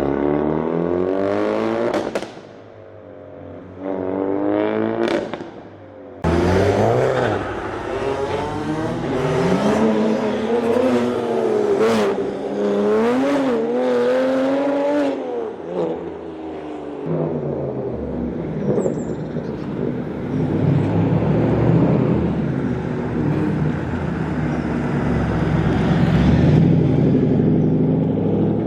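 Car engines revving and accelerating away, the engine note climbing and dropping off twice in the first few seconds. Then comes a wavering engine note, which settles into a steadier low engine rumble about halfway through.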